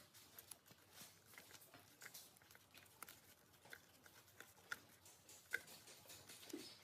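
Near silence with a few faint, scattered light clicks and taps.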